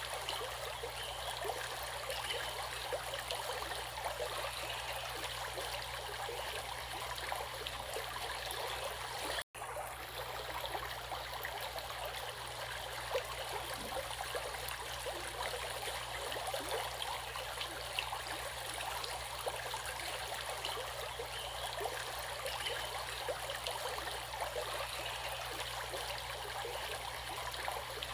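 Running water of a stream, flowing and babbling steadily, with a momentary dropout about nine seconds in.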